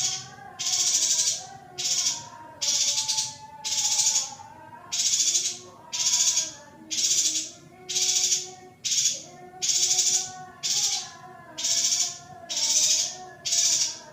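Female yuhina calls, a masteran recording for exciting male yuhinas: short high buzzy bursts repeating a little more than once a second, over faint lower wavering tones.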